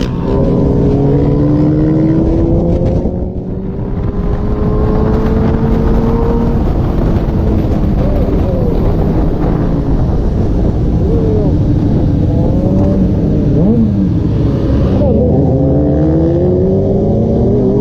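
Motorcycle engine running hard, its pitch climbing slowly over the first several seconds, then a run of short rises and falls in pitch as the throttle is worked.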